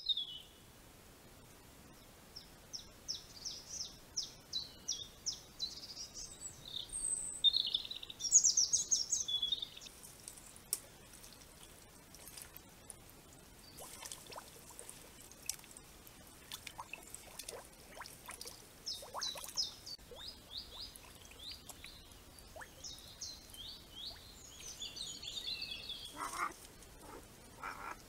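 Small birds singing: series of short high notes repeated about twice a second, pausing in the middle, with scattered faint clicks and ticks between the songs.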